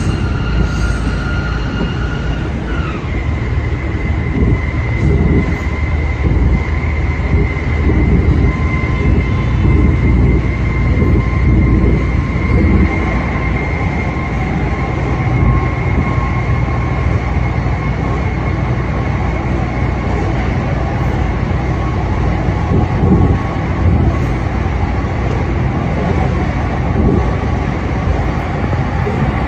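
ET122 diesel railcar running, heard from inside the cab: a steady low rumble of engine and wheels on the rails with irregular low knocks, and a high whine that drops in pitch about three seconds in, then holds steady.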